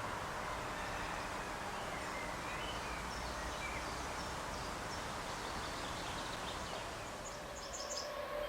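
Open-air background with a steady low rumble and small birds chirping now and then, with a quick run of chirps near the end.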